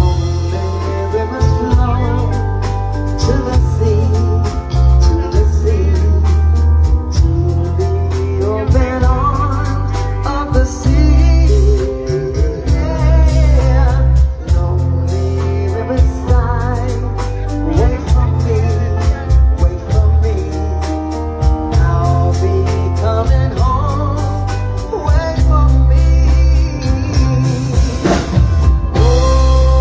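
Live band playing a song: a heavy, steady bass and drum groove with a wavering melodic lead line, a voice or guitar, over it.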